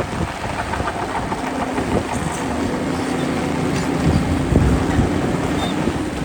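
Diesel engine of heavy earthmoving machinery running under a low, steady rumble, with a steady engine tone from about a second and a half in.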